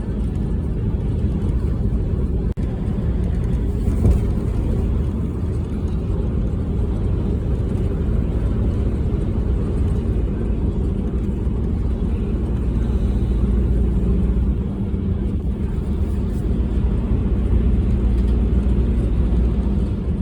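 Storm-force wind buffeting the microphone: a loud, steady low rumble, with a brief dropout about two and a half seconds in.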